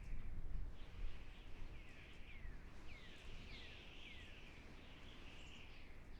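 Forest ambience: a bird gives a run of about five short chirps, each falling in pitch, over a steady high hiss and a low rumble.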